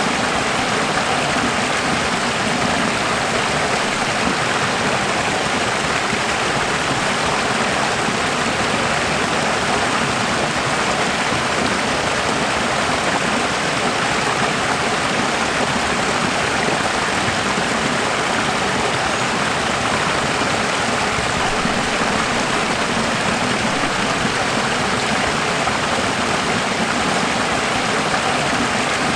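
Running water: a steady, even rush with no change.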